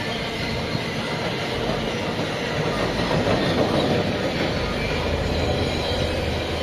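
A train passing along the track, loudest about three to four seconds in, with a low steady hum setting in near the end.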